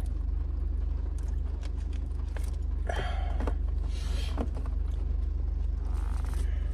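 Steady low hum of a car idling, heard inside the cabin. A few brief handling noises come about three, four and six seconds in.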